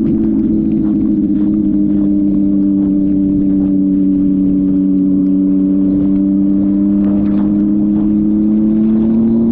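Motorcycle engine held at steady high revs, its pitch sagging a little and then starting to climb near the end.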